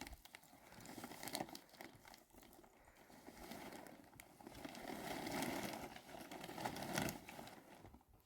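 Plastic sheeting being handled, crinkling and rustling, with scattered light clicks and knocks. The rustling grows loudest in the second half.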